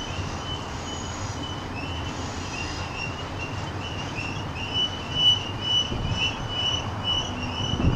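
Double-stack container train rolling past, a steady rumble of freight cars with a high wheel squeal that comes and goes, pulsing about twice a second in the second half.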